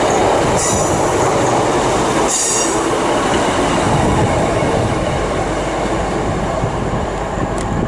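Diesel multiple unit running past at close range, a loud steady noise of engine and wheels on the rails. Brief high-pitched wheel squeals come about half a second in and again at about two and a half seconds.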